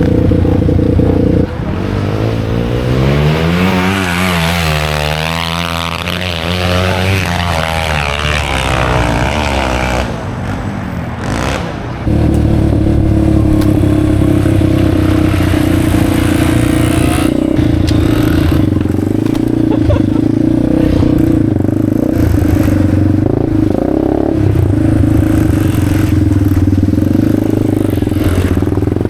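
Motorcycle engine running: a steady engine note, sweeping up and down in pitch from about two to ten seconds in, dipping briefly, then holding a steady note again from about twelve seconds in.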